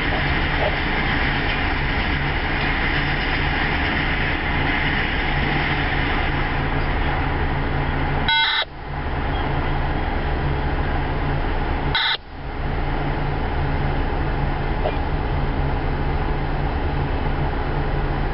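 CSX freight train rolling past: steady noise with a constant low hum. The sound cuts out briefly twice, about eight and twelve seconds in.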